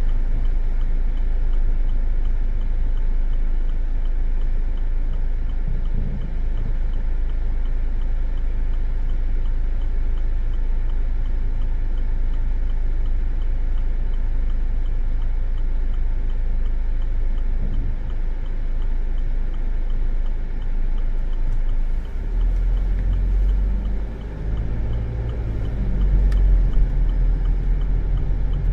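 Steady low rumble of a car's engine and road noise heard from inside the cabin, growing louder over the last several seconds.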